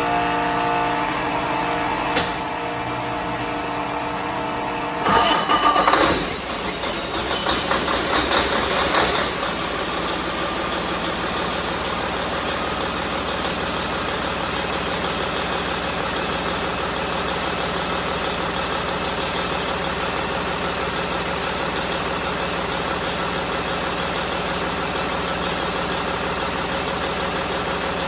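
Detroit DD15 inline-six diesel engine being started: the starter cranks with a steady whine for about five seconds, the engine catches with a louder burst, runs unevenly for a few seconds, then settles into a steady idle.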